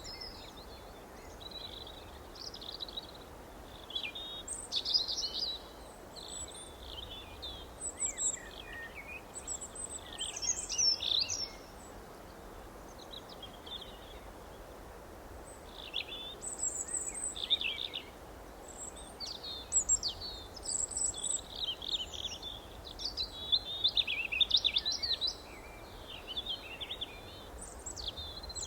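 Several songbirds chirping and trilling in short, irregular phrases, with a lull of a few seconds near the middle, over a steady faint background hiss.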